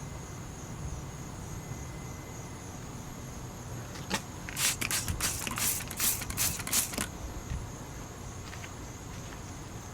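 Steady high drone of crickets, with a quick run of short, hissy rustling noises about halfway through.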